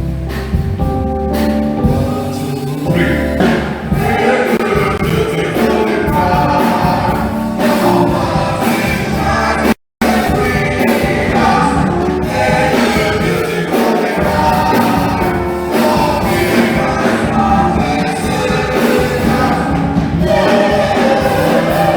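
A choir singing with instrumental accompaniment, a gospel-style carol. The sound cuts out completely for a split second about halfway through.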